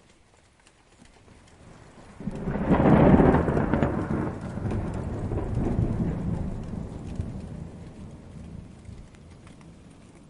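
Thunder in a rainstorm: a peal breaks about two seconds in and rolls on, slowly fading, over steady rain.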